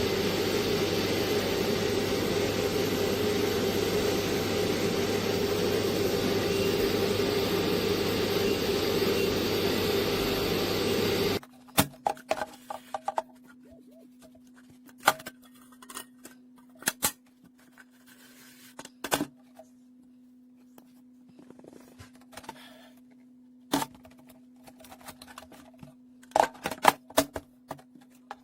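A pet grooming vacuum runs with a steady motor hum and rush of air, then stops suddenly about eleven seconds in. A faint steady hum follows, likely the electric clipper, with scattered clicks and knocks from handling.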